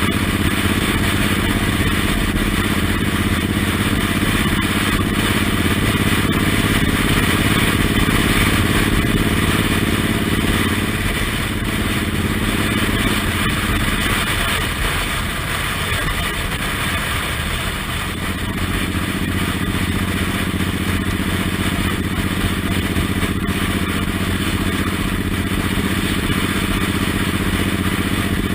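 Suzuki Intruder M1800R's V-twin engine running steadily under way, with wind rushing past. The engine eases off briefly about halfway through, then pulls steadily again.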